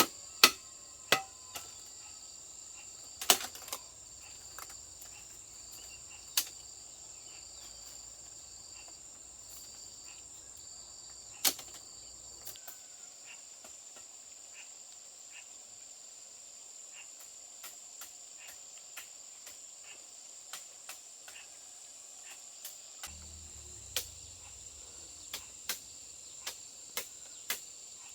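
Crickets or similar insects trilling steadily in a high thin tone, with a second pulsing insect chirr that stops about halfway through. Sharp knocks ring out now and then: a few loud ones in the first half and a run of lighter taps near the end.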